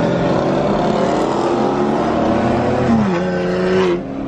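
Muscle car V8 engine accelerating, heard from inside a car: the engine note rises in pitch, falls about three seconds in as the revs drop, and the sound changes abruptly and gets quieter near the end.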